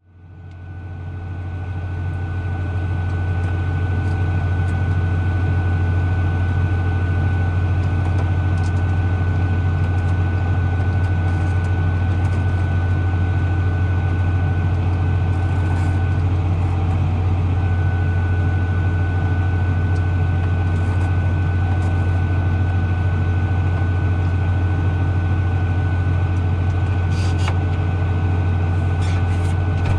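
A tractor engine running steadily at idle, a constant deep hum with a thin high whine over it. It fades in over the first few seconds.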